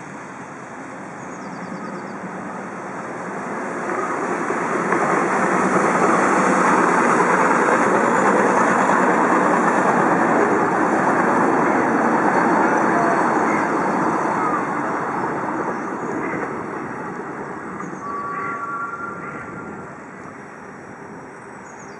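Miniature park-railway train passing on its narrow-gauge track: a steady rolling rumble of wheels on rails. It builds over the first few seconds, is loudest in the middle as the train goes by, and fades away near the end.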